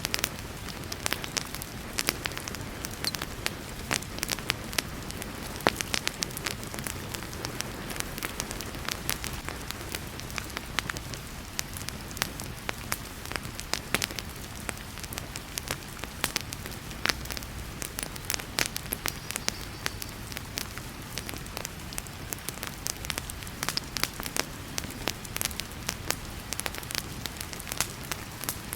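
Wood fire crackling in a fireplace, with many sharp irregular pops and snaps over a steady hiss of heavy rain.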